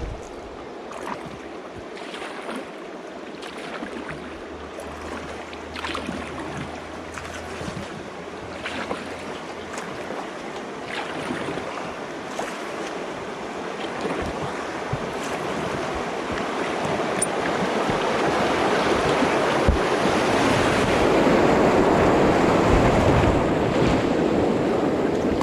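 Rushing, churning water growing steadily louder over the second half, as a canoe runs down a fish pass on the river, with a few faint knocks.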